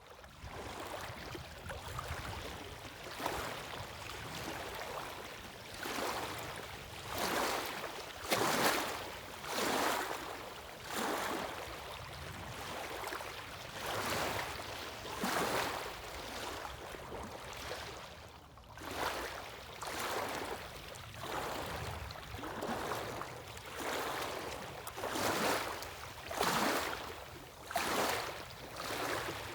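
Sea waves washing onto the shore, surging in and out every second or two over a steady hiss of water.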